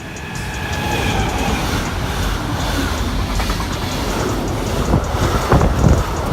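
A train passing close by on the line, its running noise swelling over the first second and then holding steady, with wheels knocking over rail joints in a few sharp thumps near the end.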